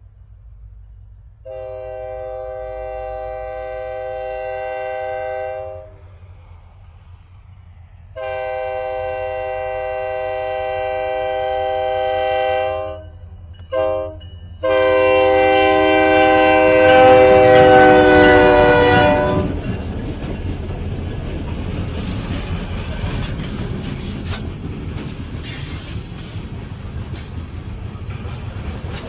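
Diesel freight locomotive's air horn sounding the grade-crossing signal: two long blasts, a short one, then a final long blast that drops in pitch as the locomotive passes. The rumble of the locomotive and the clicking of wheels over rail joints follow.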